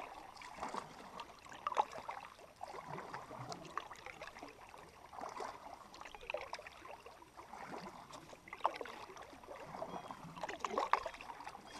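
Canoe paddle strokes in the water: swirling and trickling from the blade, a stroke every couple of seconds.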